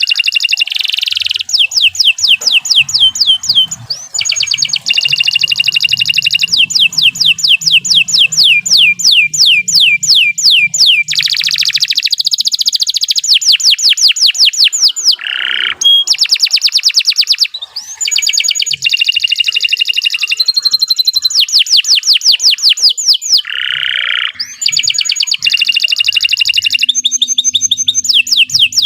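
Domestic canary singing a long, continuous song: fast trills of rapidly repeated falling notes, switching to a new trill every few seconds, with a few brief breaks between phrases.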